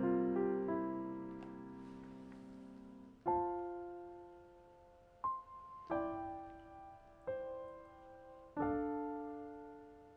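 Slow, gentle solo piano music: sustained chords that fade, then single notes and chords struck every second or two, each left to ring and die away.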